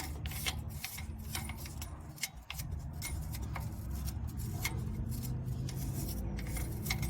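A brush scrubbing rust and clutch-lining dust off clutch parts, in a series of short, irregular scratchy strokes over a low steady hum.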